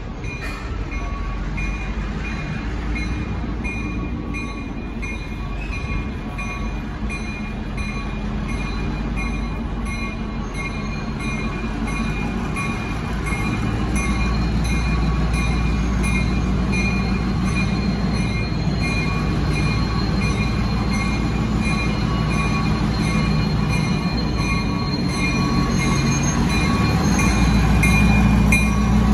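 A train moving through a commuter rail station: a low rumble that grows louder about halfway through and again near the end, under a steady high-pitched squeal that pulses evenly.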